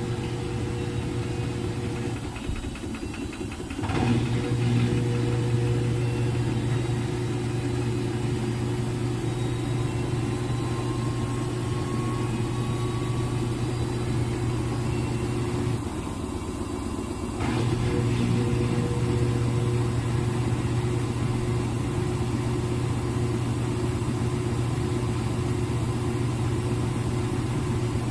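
Front-load washing machine on its spin cycle: a steady hum with a strong low tone. It dips briefly twice, about two seconds in and again a little past halfway, then comes back at full level.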